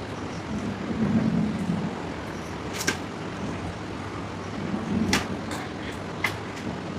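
Someone eating: chewing with three sharp clicks or smacks, the loudest about three and five seconds in, over a steady background rumble.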